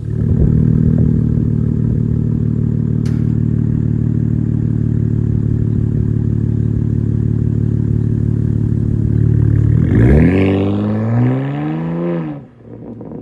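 BMW G80 M3 Competition's S58 twin-turbo straight-six exhaust, through an equal-length mid pipe, running at a steady note for about ten seconds, then rising in pitch as it accelerates and cutting off sharply near the end.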